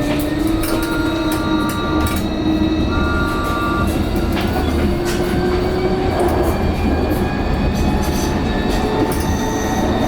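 Vossloh Tramlink light-rail tram running along the track: a steady rumble with a motor whine that slowly rises in pitch, two brief high squealing tones early on, and a few clicks from the wheels over the rails.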